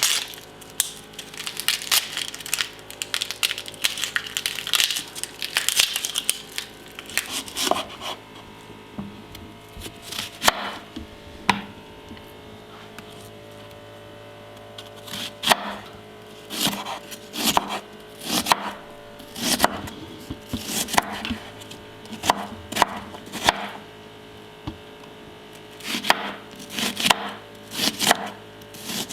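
Kitchen knife cutting an onion on a cutting board: irregular knife strikes that come in quick runs, mostly in the second half, after several seconds of rustling and crinkling at the start. A faint steady hum runs underneath.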